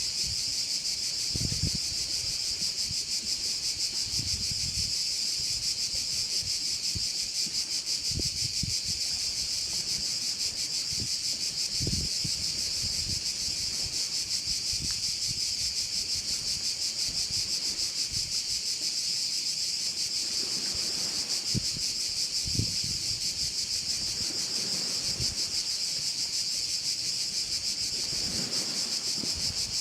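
Dense, steady chorus of crickets, a continuous high shrill buzz with a fine rapid pulse. Occasional low rumbles of wind on the microphone sit beneath it.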